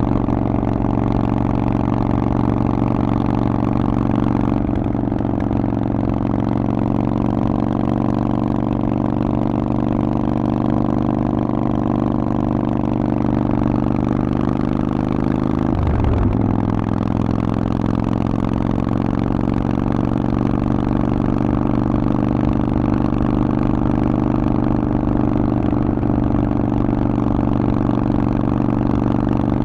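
Harley-Davidson Forty-Eight's air-cooled 1200 cc V-twin running through a Vance & Hines aftermarket exhaust at a steady cruise. About halfway through, the engine note dips sharply and then picks back up.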